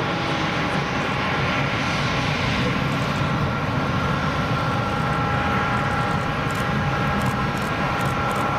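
Airliner's engines running as it passes: a steady rushing noise with two steady whining tones over it.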